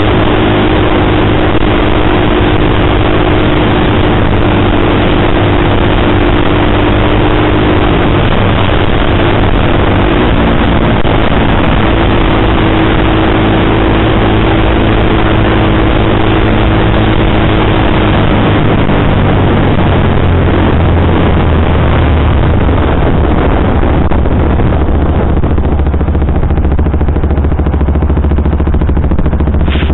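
KTM sportbike engine running on the road under heavy wind noise on the microphone, its note shifting in pitch through the middle. Near the end the engine settles into a lower, steadier note and the wind noise eases as the bike slows.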